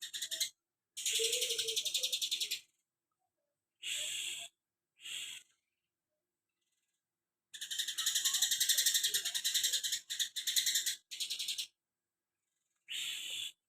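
Caged cucak kinoi songbird singing in bursts of very fast, dense, high chattering, the rapid sparrow-like 'shots' prized by bird keepers, several bursts of half a second to four seconds separated by short pauses.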